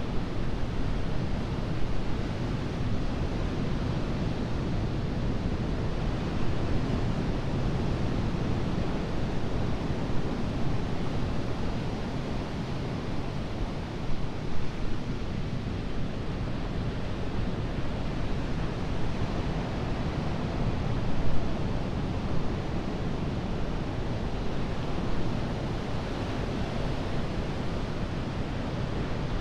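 Atlantic surf breaking on a sandy beach: a continuous, even rush of waves, with a couple of brief louder surges around the middle.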